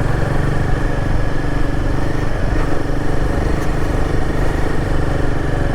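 Royal Enfield Himalayan 450's single-cylinder engine running steadily under way, heard from the rider's own bike at an even pace with no revving up or down.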